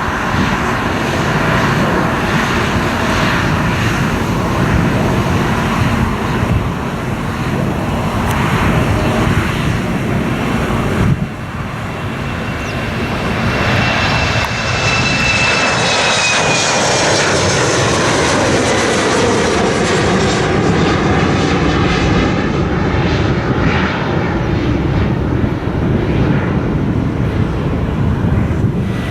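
Jet airliners departing at takeoff thrust, a loud engine rumble and roar. About eleven seconds in the sound cuts off abruptly. Another jet then passes close by, its high engine whine falling in pitch as it goes past and the roar slowly fading.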